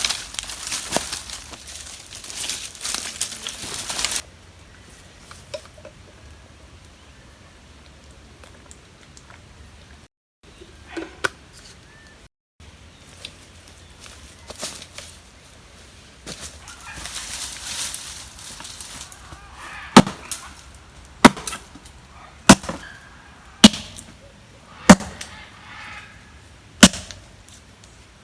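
Wood being chopped: about seven sharp blows, a little over a second apart, through the last third. Before that come a few seconds of rustling and crackling of dry material, then quiet.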